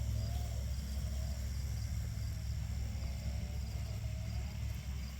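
LGB garden-scale locomotive running on outdoor track: a steady low hum from its motor block, with a fainter whine that slowly rises and falls. Insects chirp faintly in the background.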